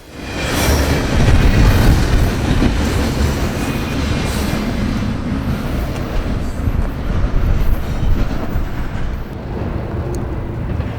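Norfolk Southern intermodal freight train rolling past at speed: a loud, steady rumble of wheels on rail and passing cars.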